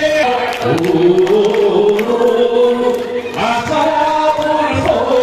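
A group of voices singing together, holding long notes that move from pitch to pitch.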